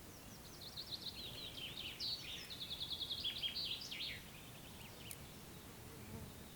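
A songbird sings one phrase of about four seconds: quick, varied high notes with a fast, even trill in the middle, over a faint steady background hiss.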